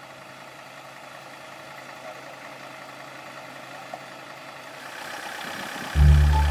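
Engine running steadily at idle, swelling slightly near the end. About six seconds in, a much louder deep sound, likely music, cuts in abruptly.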